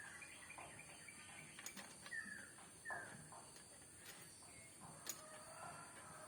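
Faint bird calls: a few short falling chirps over a steady high hiss, with an odd faint click.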